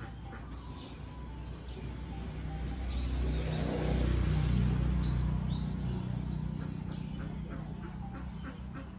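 Small birds chirping in short, repeated calls, over a low rumble that swells about three seconds in and fades again by about six seconds.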